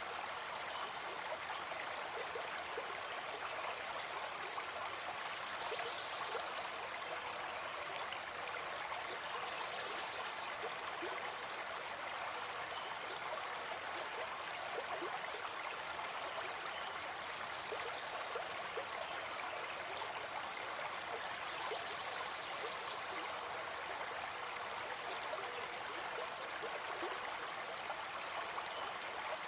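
Gentle forest stream flowing, a steady rush of water with small gurgles and trickles.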